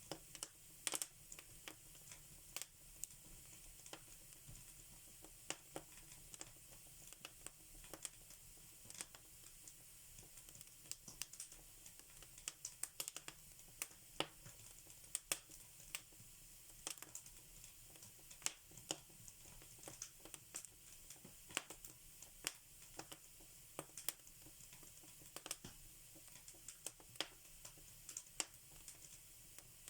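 Wood fire crackling in a fireplace: irregular sharp pops and snaps, several a second and some louder than others, over a faint steady hiss.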